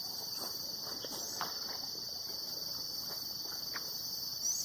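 Steady, high-pitched chorus of insects by a river, with a brief chirp near the end.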